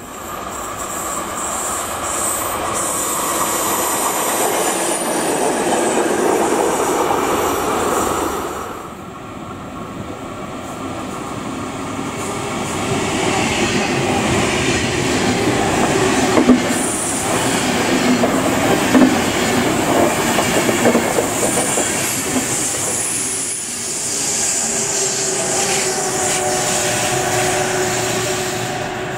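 Intercity passenger trains running through a curved station, rolling noise with wheel flanges squealing on the curve and sharp clicks of wheels over rail joints and points. Near the end a DB class 101 electric locomotive hauling Intercity coaches comes in around the curve, with a steady squeal from its wheels.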